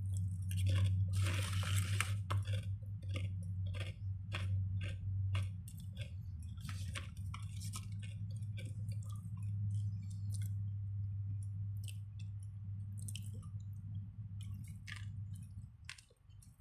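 A person chewing a sandwich close to the microphone, with irregular wet clicks and crunches and a louder rustling burst about a second in, over a steady low hum.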